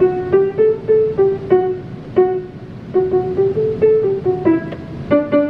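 Piano played one note at a time: a simple, halting melody of single middle-register notes, about two a second, with a few notes doubled at the octave near the end.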